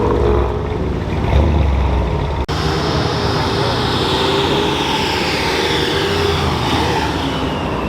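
Supercharged Ford Mustang V8 engines running as the cars drive slowly past. About two and a half seconds in the sound cuts abruptly, and after that a high whine slowly falls in pitch over the engine rumble.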